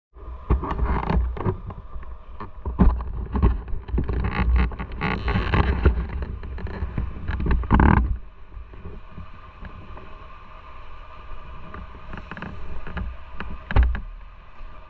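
Motorcycle riding noise: wind buffeting the microphone over the engine, heavy and gusty with sharp knocks for the first eight seconds, then dropping to a quieter, steadier engine hum, with one thump near the end.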